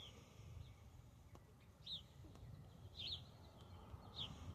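A bird's short high chirps, four of them about a second apart, faint over a low background rumble.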